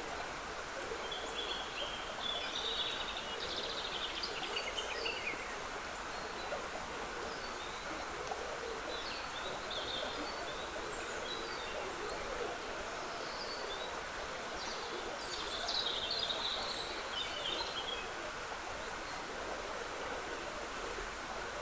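Small stream trickling steadily, with birds singing in the woodland above it in scattered phrases, busiest near the start and again about three-quarters of the way through.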